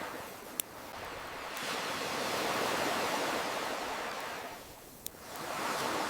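Ocean waves washing in and out, one surge swelling up and ebbing away before the next begins to build, with two sharp pops from a crackling campfire, one near the start and one about five seconds in.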